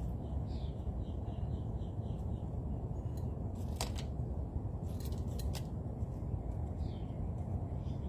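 Small birds chirping in short high notes, a quick run of chirps early on, over a steady low rumble, with a few sharp clicks around the middle.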